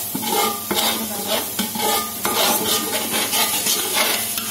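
Onion paste sizzling as it fries in oil and ghee, with repeated scraping strokes of a spoon stirring it around the pan. The onions are nearly done frying.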